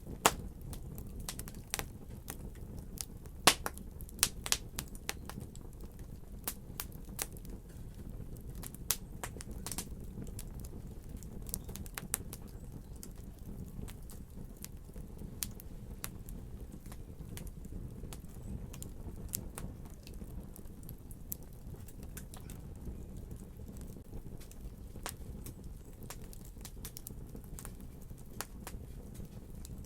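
Wood fire crackling: irregular sharp pops and snaps over a steady low rumble of flames. The loudest snaps come in the first few seconds.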